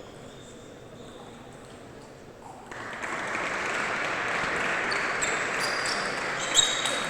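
Audience applause in a large hall, breaking out about three seconds in and continuing, with one sharp click near the end.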